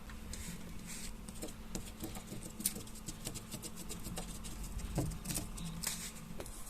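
Light, irregular scratching and tapping of pens on paper and small drawing things being handled as a child draws, over a faint steady hum.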